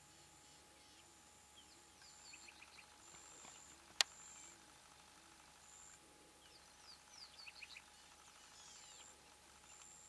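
Faint bird calls: repeated short, high, level whistles and clusters of quick descending chirps, with one sharp click about four seconds in.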